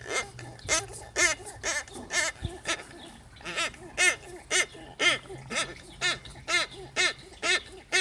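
Old automotive water pump squeaking in a regular chirp, about two squeaks a second: the sign of a worn water pump rather than a pulley.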